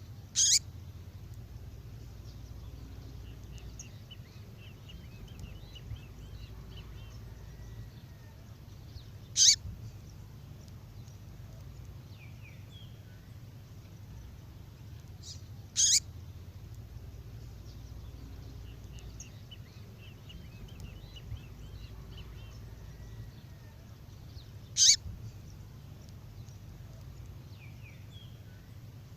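Recording of a female songbird's call, played as a lure for males: four short, sharp, high calls spaced several seconds apart, with faint twittering between them over a low steady hum. The same sequence repeats about every 15 seconds, as a looped track.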